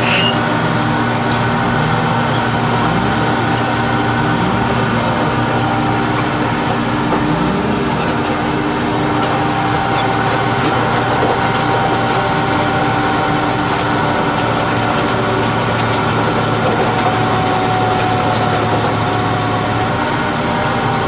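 An engine running steadily, with a few brief rises in pitch.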